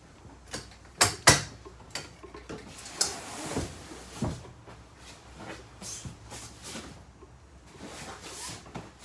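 A trifold sleeper sofa being handled and put back together, with cushions and pillows set back in place. There are two sharp knocks about a second in, then rustling and another knock, followed by softer handling sounds.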